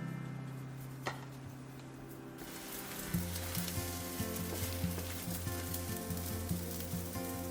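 Spring cabbage (bom-dong) pancake frying in oil in a pan, sizzling; the sizzle fills in about two and a half seconds in. Soft background music plays under it.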